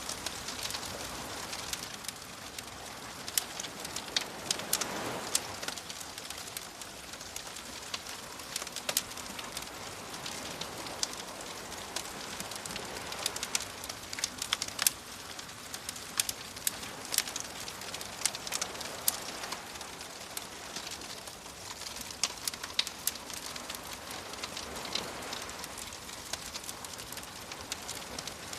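Wood fire crackling with frequent sharp pops over a soft hiss, while gentle waves wash in, swelling about five seconds in and again near the end.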